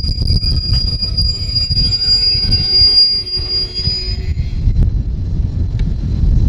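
Freight train wagons rolling slowly through a turnout onto the main line, wheels squealing in a steady high tone that fades out about four seconds in, over a continuous low rumble.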